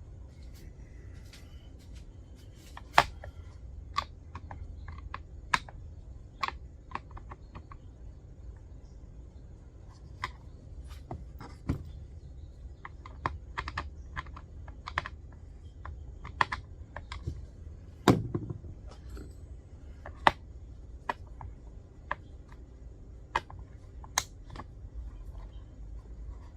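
Irregular sharp clicks and light taps of metal parts and hand tools being handled while a chainsaw mill attachment is fitted to a chainsaw. There is one heavier knock with a short low ring about 18 seconds in.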